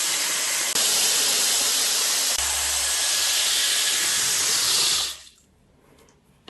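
Hot-air hair styler blowing with a steady rushing hiss, switched off about five seconds in.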